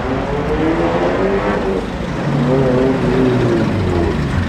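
Vehicle engine revving twice over a low rumble, the pitch rising and falling each time.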